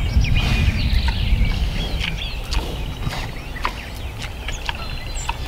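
Small birds chirping now and then over a steady low rumble, with a few scattered light clicks and knocks.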